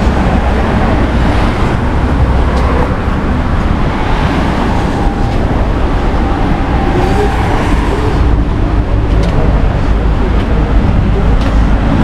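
Road traffic noise: a loud, steady rumble of passing vehicles without a break.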